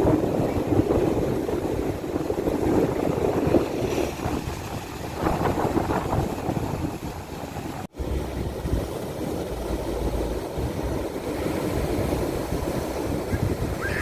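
Sea surf breaking and washing up the beach, with wind buffeting the microphone; the sound drops out for an instant about eight seconds in.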